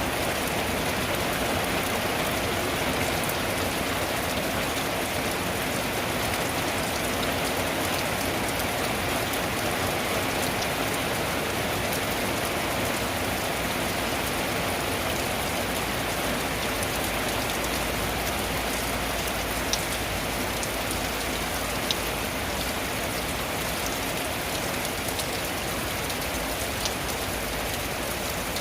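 Rain falling steadily on a tin roof, an even hiss with a few sharper single drop hits about two-thirds of the way in.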